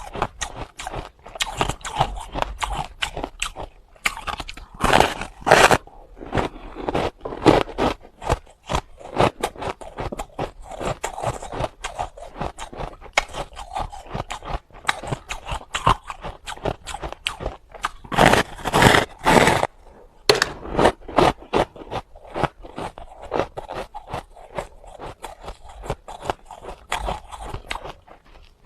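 Close-miked biting and chewing of hard ice: a continuous run of sharp, crackling crunches, loudest about five seconds in and again around nineteen seconds.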